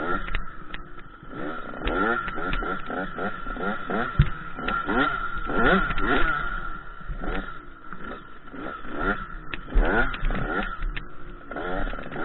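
KTM 85 SX two-stroke dirt bike engine revving up and down repeatedly, its pitch rising in quick short sweeps over and over as the throttle is opened and closed.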